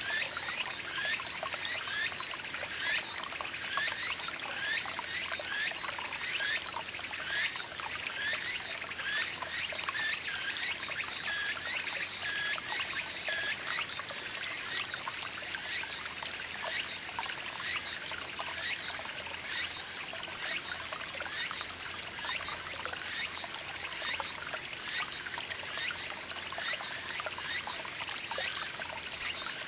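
A small shallow stream trickling and babbling steadily. Over it, a short rising chirp repeats a little more than once a second until about halfway through, and a steady high-pitched tone runs throughout.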